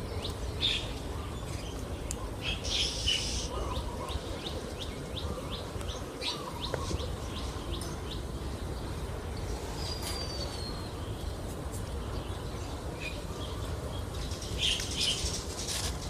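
Birds giving warning calls: a quick run of sharp chirps in the first few seconds, two short harsh bursts (one early, one near the end), and a single falling whistle about ten seconds in, over a steady low outdoor rumble.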